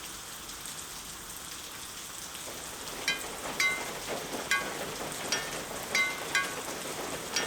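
Cartoon rain sound effect: a steady rain hiss. About three seconds in, short, high pitched drip plinks join it, roughly two a second.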